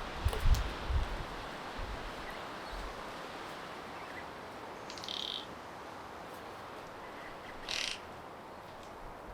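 Two short, high bird calls about three seconds apart over a steady hiss of wind, with a few low wind thumps on the microphone at the start.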